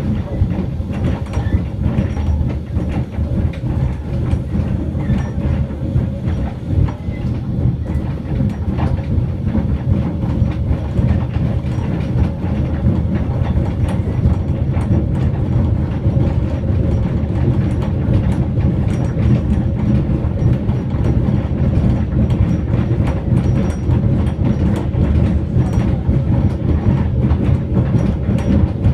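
Small train running slowly along a restored quarry railway, heard on board: a steady low rumble of wheels on the track, with scattered clicks as they pass over the rails.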